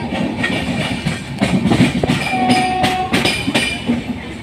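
Rajdhani Express passenger train running at speed, heard through an open window: wheels clattering over rail joints amid a steady rumble and rushing air. A short steady tone sounds a little past halfway.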